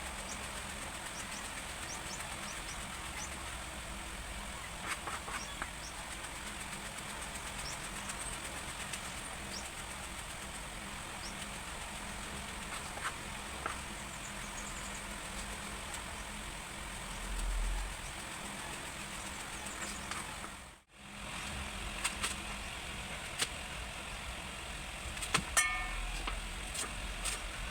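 Steady background noise with scattered light clicks and knocks, dropping out briefly about 21 seconds in.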